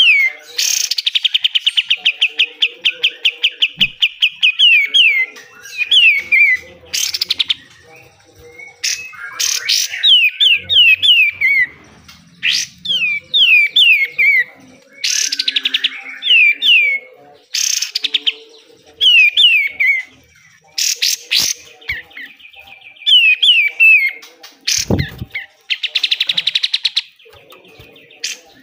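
Kapas tembak songbird singing loud, fast 'besetan' phrases: quick runs of down-slurred whistled notes broken by harsh chattering bursts, with a long rapid rattle near the start. A single low thump comes near the end.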